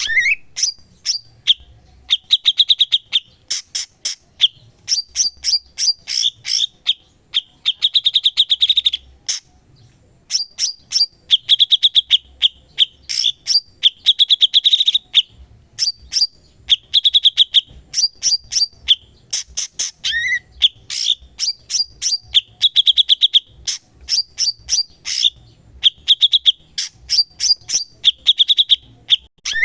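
Cucak cungkok singing continuously. Its song is made of fast, high trills and bursts of sharp chirps, repeated in phrases a second or two long with short pauses between them.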